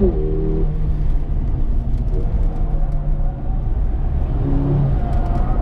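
Mercedes-AMG A45's turbocharged 2.0-litre four-cylinder engine heard from inside the cabin on track. The engine note drops sharply right at the start, then holds steady at a lower pitch over a constant low rumble of road and tyre noise.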